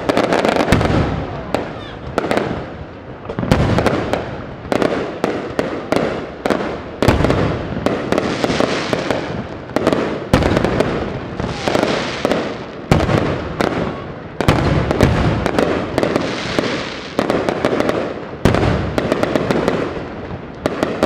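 Large aerial fireworks display: shells bursting one after another in quick succession, sharp bangs over a continuous crackle that swells every few seconds.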